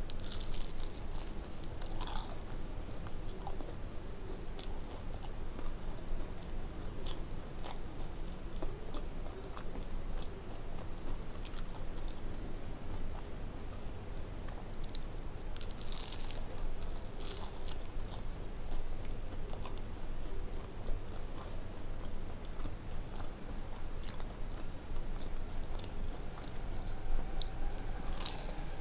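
Close-up eating of crispy breaded chicken nuggets with sauce: crunchy bites and wet chewing, with sharp crunches scattered through and clusters near the start, in the middle and near the end. A steady low hum runs underneath.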